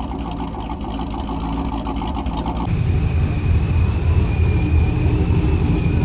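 Car engine running, then about two and a half seconds in an abrupt change to a louder, deeper engine rumble with a steady high whine over it.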